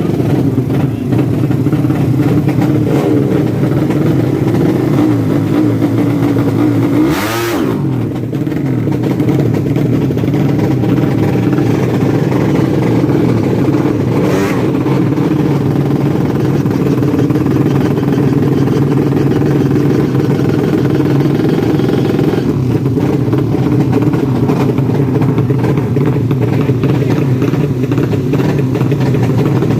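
Four-stroke 200cc drag-bike engine running and being revved, steady and loud, with a quick rising rev about seven seconds in.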